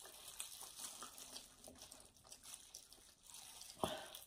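Faint eating sounds: soft chewing and small mouth clicks, with one louder click about four seconds in.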